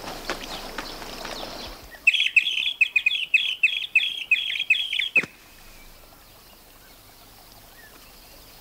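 Cartoon bluebird chirping quickly and loudly, about four chirps a second for some three seconds. The chirping is cut off by a short falling sound as the straw is knocked over and the hat drops down over its nest.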